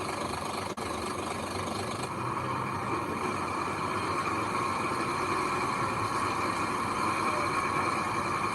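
Heavy machine's diesel engine running steadily, with a brief dropout just under a second in.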